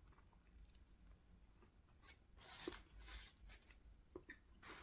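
Faint crunching and chewing as a person bites into and eats a chicken sandwich, in soft irregular bursts.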